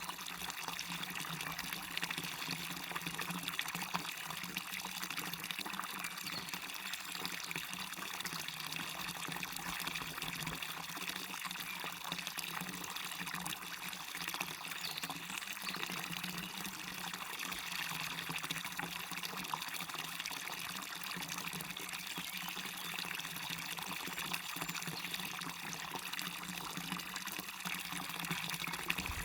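Waterfall running into a river: a steady rush of splashing, trickling water, even in level with no separate events.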